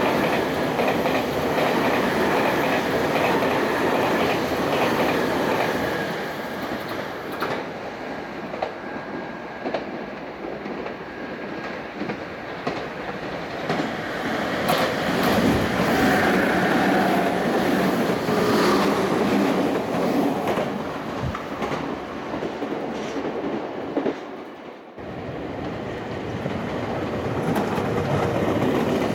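Meitetsu electric trains running through a station at speed: wheels clacking and rumbling on the rails. The first train's noise is loud for the first few seconds and then falls away. The sound swells again in the middle, dips, and builds again near the end as a red train approaches.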